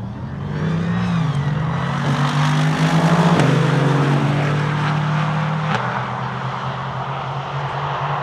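A Mercedes SLR McLaren Roadster and a Mercedes-AMG GT launch side by side from a standing start, their V8 engines revving hard and changing up through the gears. The sound is loudest about three seconds in, then fades as the cars pull away down the runway.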